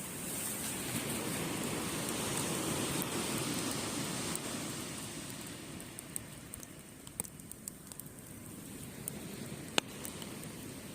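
Waves washing onto the beach, a wash of surf that swells and then eases off about six seconds in, with a wood campfire crackling in sharp pops that stand out as the surf fades.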